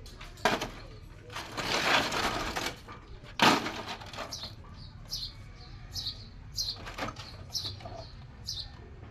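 A bird chirping over and over, short falling chirps well under a second apart, in the latter half. Before it comes a burst of hissing noise about two seconds in, then a single sharp knock.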